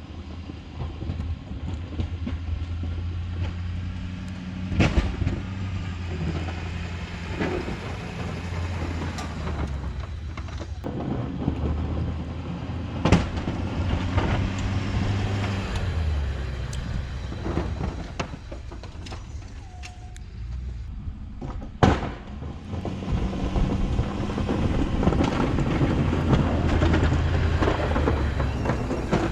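Ford F-350 pickup's engine running while plowing snow, its pitch and load rising and falling in steps as the truck works back and forth, with three sharp clunks spread through.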